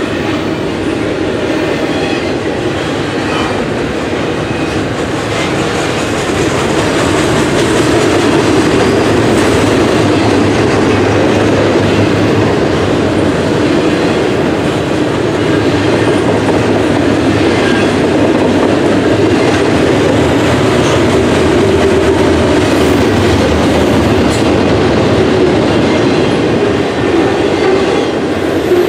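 Double-stack container well cars of a freight train rolling past close by: steady loud noise of steel wheels running on the rails, with scattered clicks, growing a little louder several seconds in.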